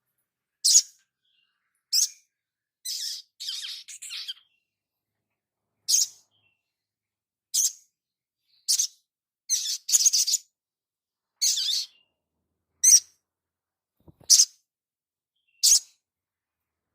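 Crimson sunbird (sogon) giving short, sharp, high-pitched calls about once a second, with a few longer chattering bursts mixed in.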